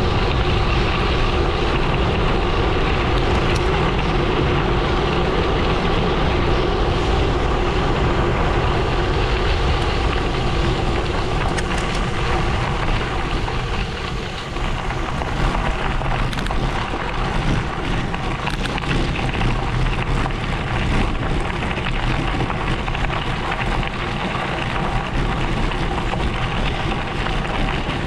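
Gravel bike tyres rolling and crunching over a gravel road, a continuous crackling rush with wind on the microphone. A faint steady hum under it fades out about halfway through.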